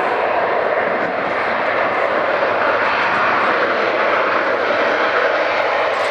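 Airliner's engines heard loud and steady at close range, an even rushing noise without breaks.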